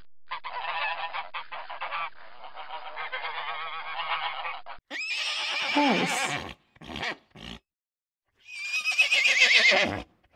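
Domestic geese honking repeatedly, breaking off abruptly about five seconds in. Then horses neigh, with a short call, two brief snorts or calls, and a long quavering whinny near the end.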